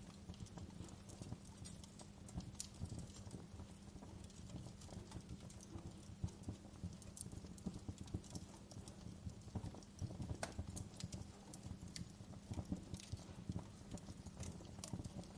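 Wood fire burning in a fireplace: a low steady rumble of flames with irregular crackles and sharp pops scattered throughout.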